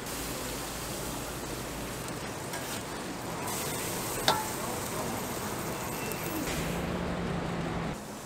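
Pieces of pork intestine sizzling on a hot flat griddle while they are scooped up with a metal strainer. About four seconds in there is one sharp metallic clink as the strainer knocks against a steel colander.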